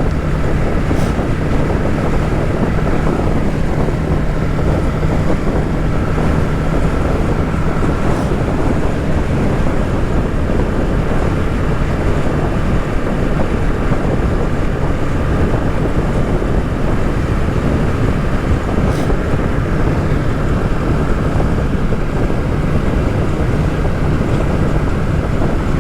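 Heavy wind noise buffeting the microphone of a Kawasaki Z650 rider at cruising speed, over the steady drone of the bike's parallel-twin engine.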